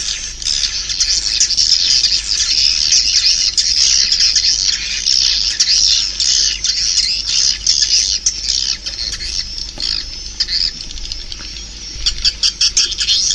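Swiftlets twittering: a loud, dense, unbroken chatter of high chirps, with a run of quick sharp clicks near the end.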